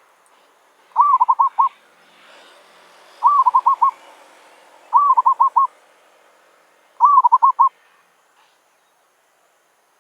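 Zebra dove (merbok) cooing: four phrases about two seconds apart, each a drawn-out first note followed by a quick run of short staccato coos.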